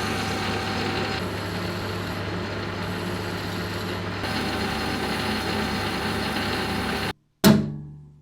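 A workshop machine with an electric motor running steadily with a low hum, cut off abruptly about seven seconds in. Then a single sharp knock that rings briefly and fades.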